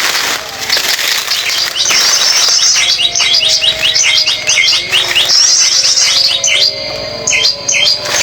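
Small songbirds chirping: rapid runs of short, high, down-slurred notes, with a thin steady whine underneath.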